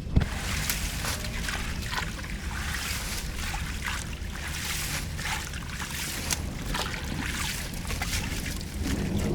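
Flood water flowing and trickling, with many small irregular splashes over a steady low rumble.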